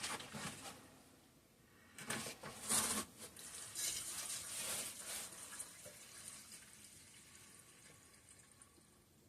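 Gasoline being poured into the fuel tank of a 5 hp Briggs and Stratton engine: a soft trickling pour that fades away over a few seconds, after a few light knocks as the can and tank are handled.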